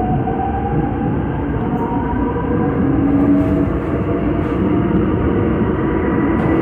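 Seoul Subway Line 5 train running, its traction motors whining in several tones that rise in pitch and then level off as it gathers speed, over a steady rumble of wheels on rails.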